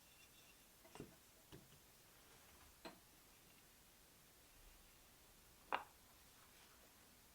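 Near silence broken by four scattered, short clicks and taps, the loudest about six seconds in, from hand tools and wood being handled.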